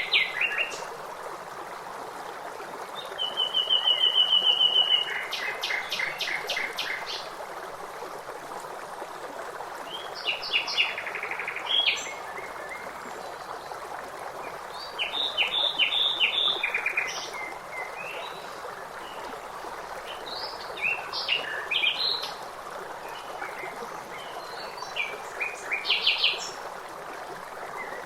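Songbirds singing in short phrases of rapid repeated chirps every few seconds over a steady rush of flowing water.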